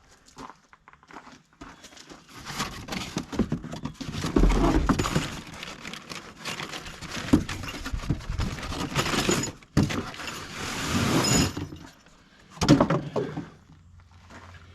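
Packaging and hardware being handled: a crackling, rustling noise with scattered clicks and rattles, in bursts from about two seconds in, stopping briefly near the end and coming back once.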